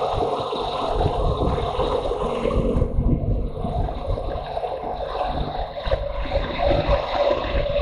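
Motorcycle engine running under way, with wind buffeting the onboard microphone in an irregular low rumble.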